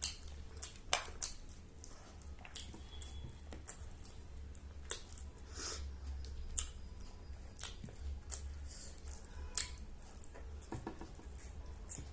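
A person chewing biryani, with irregular wet clicks and smacks of the mouth.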